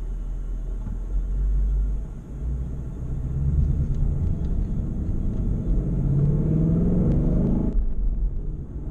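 A vehicle engine running under way with a low rumble. From about five seconds in the engine note rises as it accelerates, then drops off abruptly near the end.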